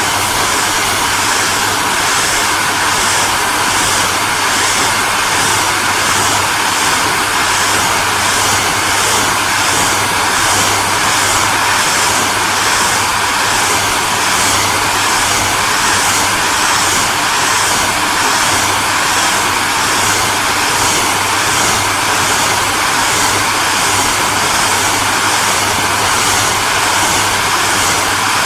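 Hair dryer running steadily: a loud, even rush of air over a low motor hum, with a faint high flutter repeating roughly twice a second.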